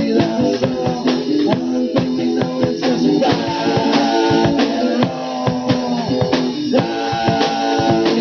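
Rock band playing an instrumental passage without vocals: guitars holding sustained chords over a drum kit keeping a steady beat.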